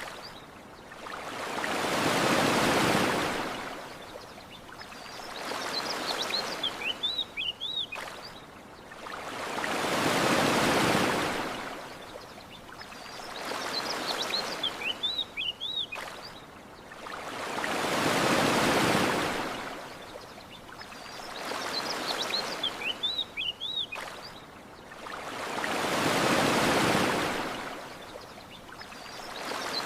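Ocean waves washing onto a shore, each surge swelling and falling back, a big one about every eight seconds with a smaller one between, and short bursts of bird chirps in the lulls. The pattern repeats exactly as a loop, with a faint click every eight seconds at the seam.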